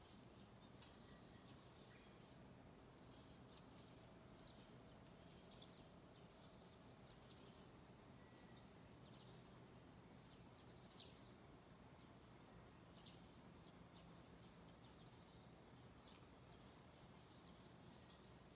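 Near silence: small birds chirping faintly in many short, high calls over a low steady background hum.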